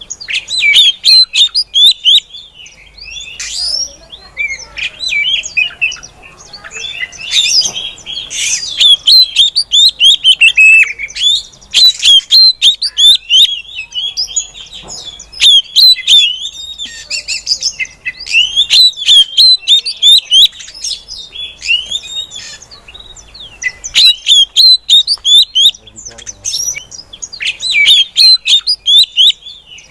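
Female oriental magpie-robin (kacer) calling: rapid high chirps and twitters in bursts of a few seconds, with short pauses between them.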